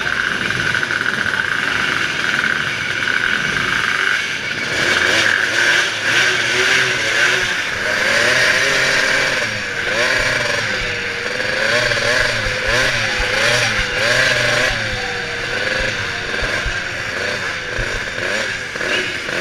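Loud engine revving up and down again and again over a steady din, with the revs rising and falling most plainly in the middle of the stretch.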